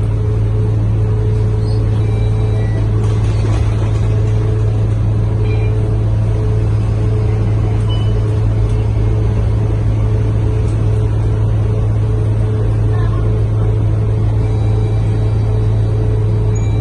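Scania K230UB bus's five-cylinder diesel engine heard from inside the cabin, running with a steady low drone that holds an even pitch.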